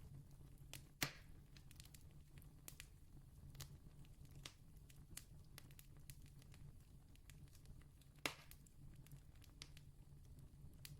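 Faint campfire: wood burning with scattered small crackles and two louder pops, one about a second in and one about eight seconds in.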